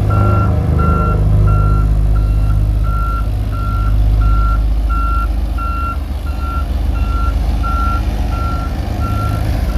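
A reversing alarm on a paving-crew vehicle beeps steadily, a little under two beeps a second, over a low engine and road rumble.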